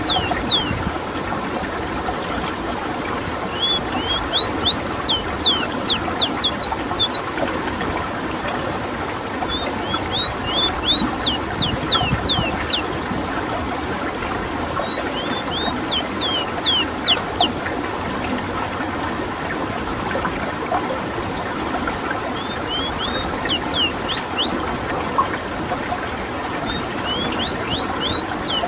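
Ruddy-breasted seedeater (Sporophila minuta) singing: repeated high, thin phrases of quick rising and falling whistled notes, each phrase about two to three seconds long and coming roughly every five seconds, over a steady background hiss.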